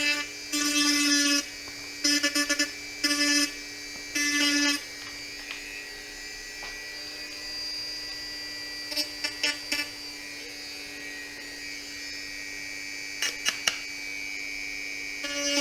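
Small handheld electric rotary tool trimming the edge of a polycarbonate (Lexan) RC body shell. Its motor whine is louder in four short runs over the first few seconds, then settles into a quieter steady hum, with a few small clicks later on.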